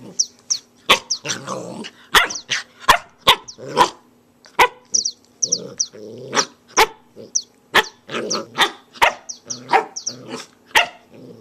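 Young puppy barking in sharp yaps about twice a second, with growling and short high squeaks between the barks.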